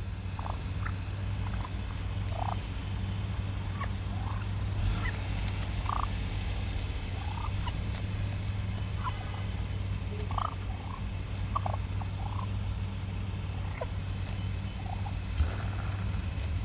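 A flock of turkeys giving short, scattered calls, one after another, over a steady low hum.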